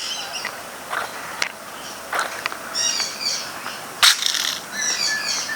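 Birds calling in two short bursts of high, warbling chatter, over scattered sharp crunching clicks.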